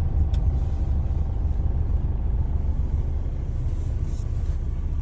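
A steady low rumble with a faint steady hum above it, and one brief click shortly after the start.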